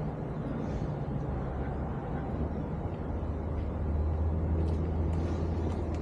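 Low, steady rumble of a vehicle engine, growing louder about four seconds in, with a few faint clicks.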